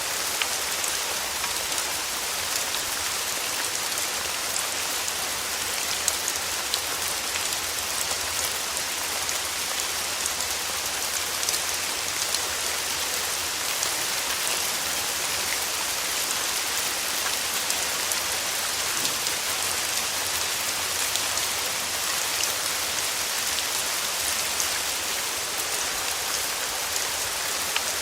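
Steady rain falling, an even hiss with many small drop ticks, high and bright.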